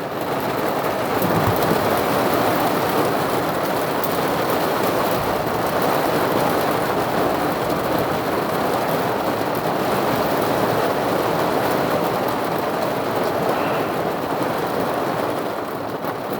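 Heavy rain pouring down steadily in a thunderstorm, an unbroken rushing hiss.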